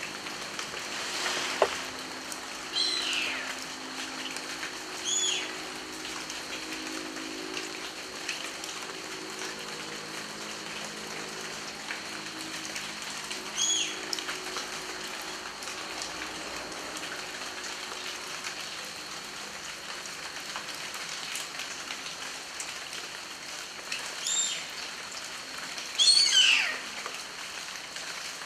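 Steady rain falling, with a bird calling over it a few times: short two-note chirps and, near the end, a longer series of descending whistles.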